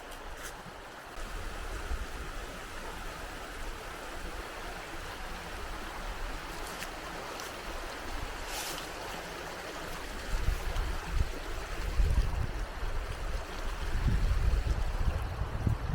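River water rushing steadily. Gusts of wind buffet the microphone with low rumbling, strongest in the last few seconds.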